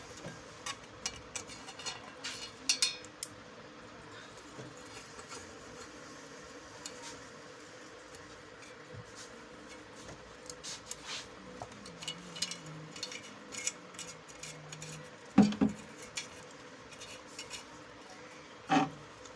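Scattered small metallic clicks and clinks of tools and parts being handled during a freezer fan motor repair, with two louder knocks near the end. A faint steady hum runs underneath.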